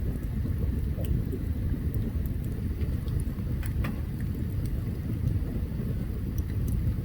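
Open campfire burning: a steady low rumble with scattered sharp crackles and pops of the burning wood.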